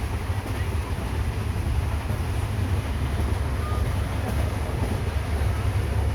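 Steady low rumble of a Russian-built third-class ventilated passenger train running along the track.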